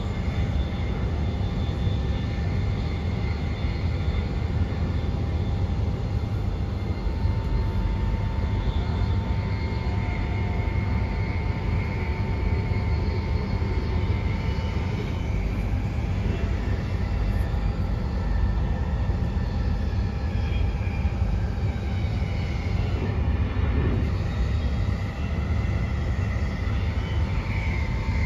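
Cabin noise of a Queensland Rail NGR 700 series electric multiple unit on the move: a steady low rumble from the wheels on the track, with a few thin, steady whining tones over it.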